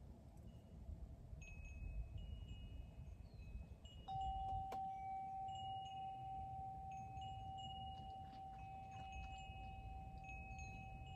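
Wind chimes ringing, several high notes sounding and overlapping at different pitches. About four seconds in, a louder, lower note is struck and rings on steadily.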